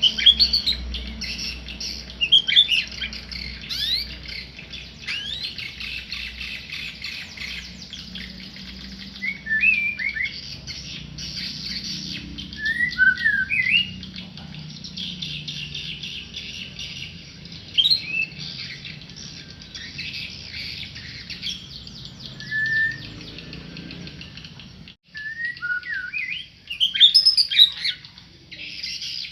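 A tame pet murai, a Copsychus songbird, singing in short whistled phrases of quick rising and falling notes, broken by pauses, over a steady background hiss.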